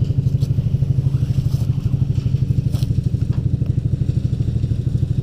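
Single-cylinder 250 cc ATV engine idling with an even, rapid putter.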